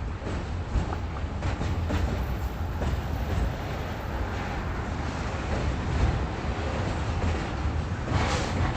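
Train running on the rails: a steady low rumble with a few short knocks, and a louder rush about eight seconds in.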